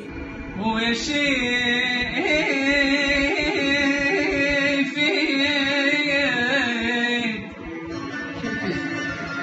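Iraqi song: a voice holds a long, wavering, ornamented melodic line over musical accompaniment, dropping quieter about three-quarters of the way through.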